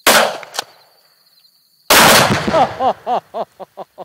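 A rifle shot cracks, then about two seconds in a 2.5-pound charge of Tannerite binary explosive detonates under a bucket on a railroad tie with a far heavier, deeper boom that rolls on before dying away.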